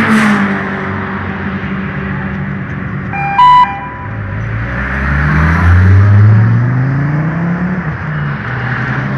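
Ford Focus RS's turbocharged five-cylinder engine pulling away hard, its pitch climbing steadily and then dropping at an upshift near the end. Just before it sets off, a short, loud horn toot.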